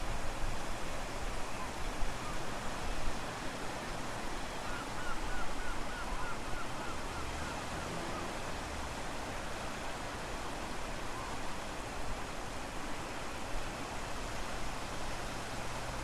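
Strong wind and ocean surf making a steady rushing noise, with the wind buffeting the microphone in low gusts. A quick run of about ten faint high chirps comes about five seconds in.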